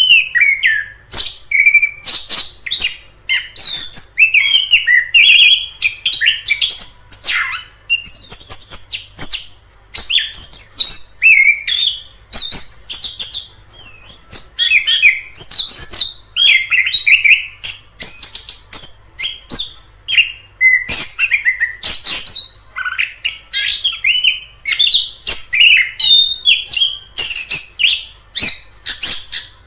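Chestnut-capped thrush (anis kembang) singing a continuous, varied song of quick high whistled and chattering phrases, one after another with hardly a pause.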